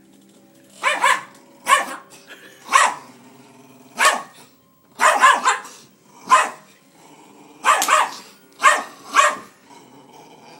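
A dog barking in short, sharp bursts, about a dozen barks, some in quick pairs, with brief pauses between. She is barking in anger at being pointed at.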